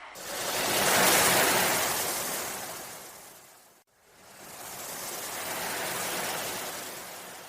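Ocean waves washing in: two swells of surf noise, the first peaking about a second in and fading, the second rising more slowly, each ending in an abrupt cut.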